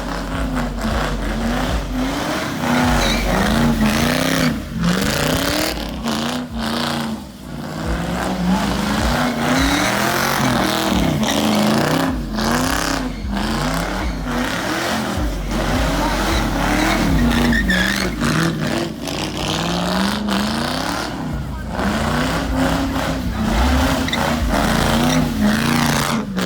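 Car engine revving hard, its pitch climbing and dropping again and again throughout.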